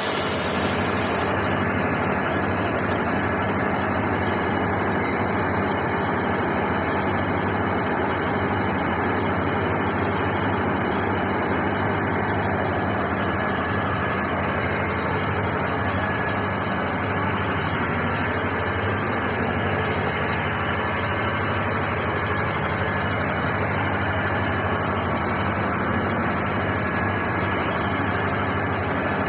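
Home-assembled soft-serve ice cream machine running with a steady motor hum under a bright, even hiss.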